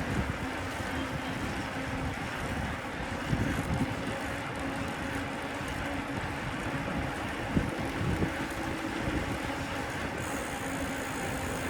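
Steady street noise heard from a moving bicycle: a low rumble of traffic and air, with a faint steady hum and a couple of light knocks.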